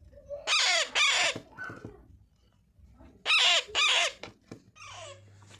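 Young Alexandrine parrot squawking: two pairs of loud, harsh calls that fall in pitch, the second pair coming about three seconds after the first.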